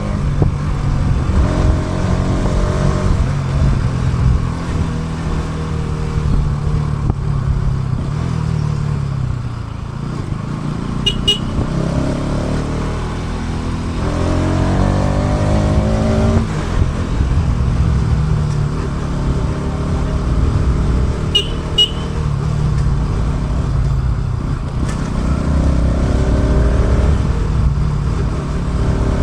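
Motorcycle engine heard while riding, rising and falling in pitch as the rider speeds up and eases off, over a steady low road rumble. Short high beeps come once about a third of the way in and twice about two-thirds in.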